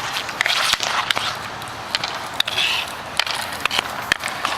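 Hockey play: skates scraping, with a string of sharp clacks and knocks from sticks and the puck scattered through it.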